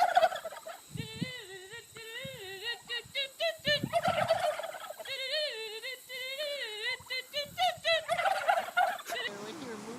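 Turkeys gobbling: rapid rattling calls repeated one after another, stopping about nine seconds in.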